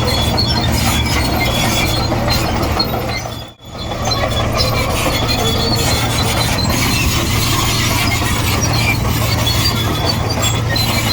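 Komatsu D58E crawler bulldozer working: its diesel engine running under load with a steady low drone, and high-pitched squeaks from the steel tracks. The sound drops out briefly about a third of the way in.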